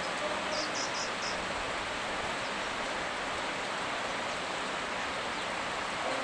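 Steady rain falling, a constant hiss. A bird gives four short high chirps in quick succession about a second in.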